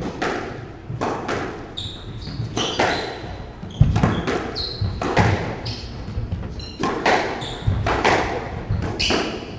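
Squash rally: the ball smacking off rackets and the court walls every second or so, with shoes squeaking sharply on the court floor between hits.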